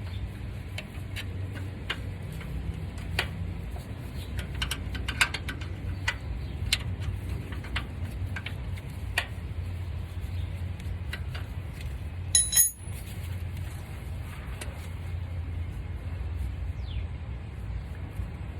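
Birds chirping in short, scattered calls over a steady low background rumble. About twelve seconds in there is one brief, loud, high ringing clink.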